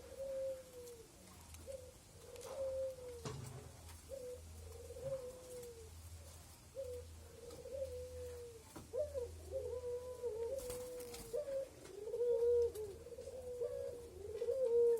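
Spotted doves giving soft, low cooing notes in short repeated phrases, coming closer together and louder in the second half, over a faint steady low hum.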